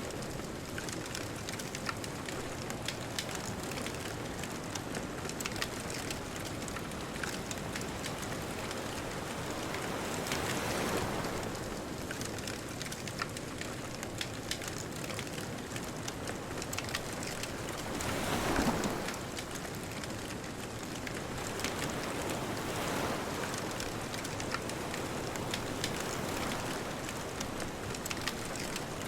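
Bonfire crackling steadily with many small sharp pops, over the wash of distant ocean waves that swell and fade every several seconds, the loudest wave about two-thirds of the way through.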